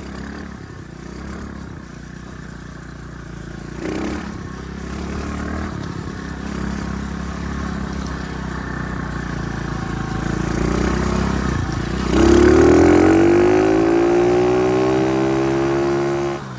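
Dirt bike engine running under way, with a thump about four seconds in. Near the end the engine revs up hard in a fast-rising climb as the bike accelerates, then levels off and dips briefly.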